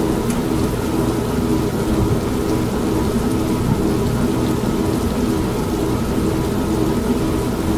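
An old washing machine running with a steady, pulsing motor hum, layered with constant rain and a low rumble of thunder.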